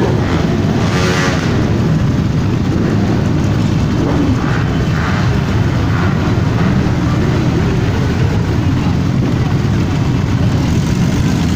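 Many motorcycle engines running together in a loud, steady rumble as the bikes of a parade ride past, with a brief rising pitched sound about a second in.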